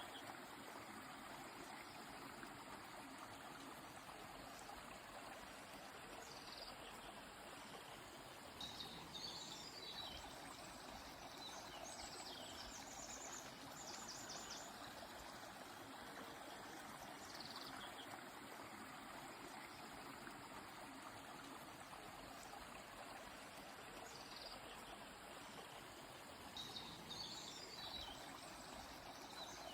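Faint, steady rush of a flowing river or stream, with birds giving short high calls and quick trills every few seconds.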